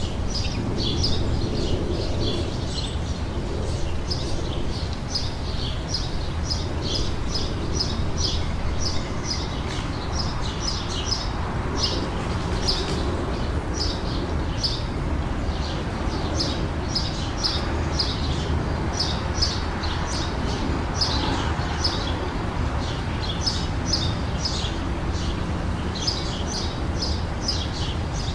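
Small songbirds chirping in quick runs of short, high notes that repeat throughout, over a steady low background rumble.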